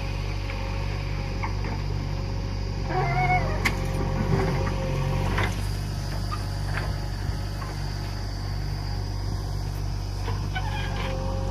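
Diesel engine of a loader or tractor running steadily at work, with a few sharp clanks. A brief wavering high-pitched sound about three seconds in.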